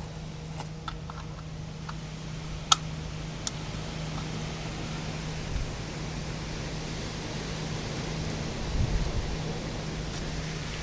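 Steady drone of a police helicopter overhead, a constant low hum under a noisy wash, with wind buffeting the microphone in low rumbles near the end. Two or three small clicks of tools or parts being handled come in the first few seconds.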